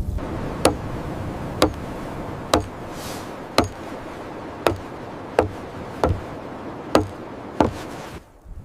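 Sharp blows of a tool striking wood, about nine of them at roughly one a second.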